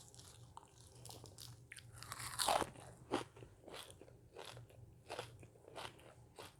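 A person chewing crunchy food close to the microphone: a run of crisp, irregular crunches, one louder bite about two and a half seconds in.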